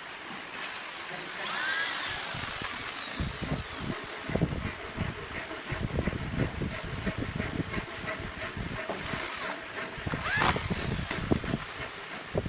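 Power drill driving screws into wood, its pitch gliding as it spins up twice, with many short knocks of wood being handled and struck in between.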